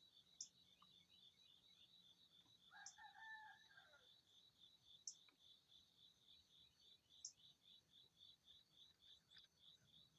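A distant rooster crows once, faintly, about three seconds in. Under it, insects chirp steadily at about four or five high pulses a second, with a short higher chirp every two seconds or so.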